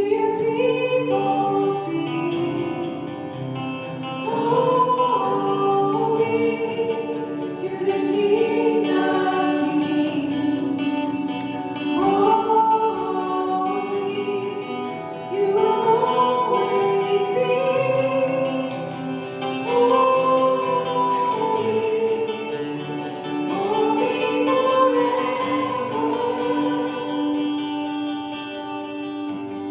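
Gospel worship song: singing in phrases of a few seconds over guitar and a sustained low note.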